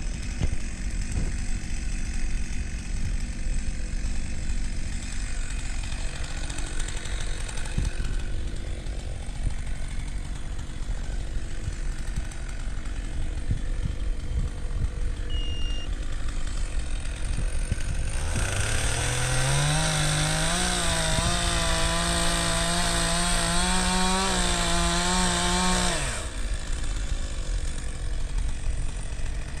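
Two-stroke chainsaw idling, then throttled up about 18 seconds in and held at high revs, wavering slightly as it cuts wood, for about eight seconds before dropping back to idle.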